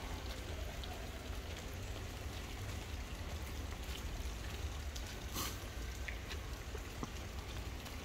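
Rain falling steadily, with scattered close drops ticking sharply and one a little louder about five seconds in, over a low steady rumble.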